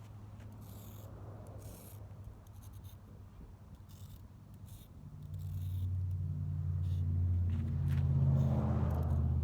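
A motor vehicle's engine running with a low, steady hum, getting much louder about five seconds in, with a few faint clicks and scrapes over it.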